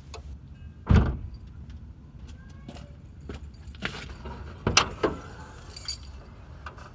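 Car keys jangling with scattered clicks and knocks, a loud thump about a second in and two more sharp knocks near five seconds. No starter cranking or engine running is heard.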